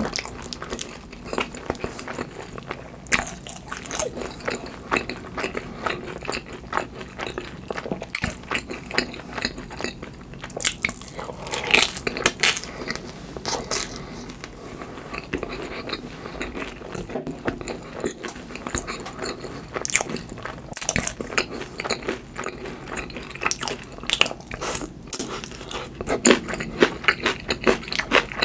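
Crunchy bites and chewing of a crispy hash brown topped with mashed avocado: a continual crackle of small crunches, with louder crunches now and then.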